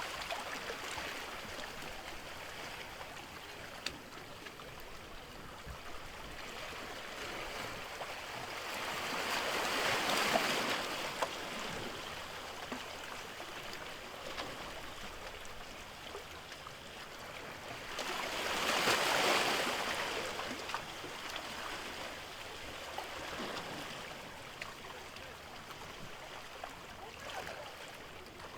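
Sea waves washing in over a steady hiss of water, with two larger waves swelling up and dying away, about ten seconds in and again just before twenty seconds.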